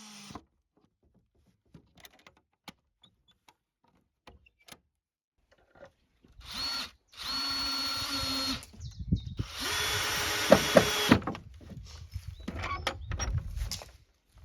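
Power drill running in three bursts: a short one, then two of about a second and a half each. Light knocks and handling noise follow.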